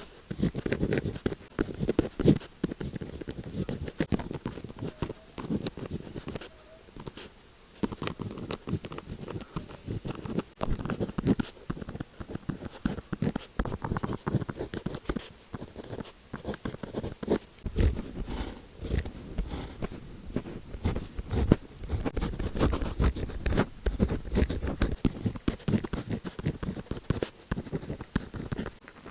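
Pen tip scratching and tapping on paper in many short, irregular strokes, with some heavier strokes in the middle stretch.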